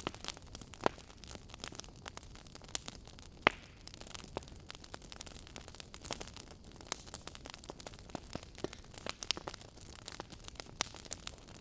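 Wood fire crackling in an open fireplace: irregular sharp pops and snaps over a soft steady hiss, with two louder pops about one second and three and a half seconds in.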